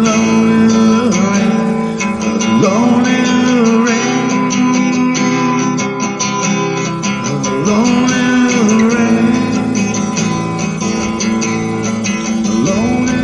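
Acoustic guitar music, strummed and plucked, in an instrumental stretch of a song, with a few sliding notes.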